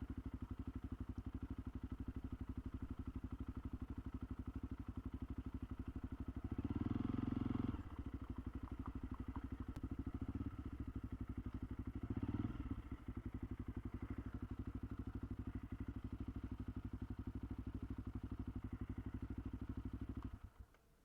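Honda CRF300L's single-cylinder four-stroke engine running steadily at low speed, with a short louder stretch about seven seconds in. It is switched off near the end and cuts out abruptly.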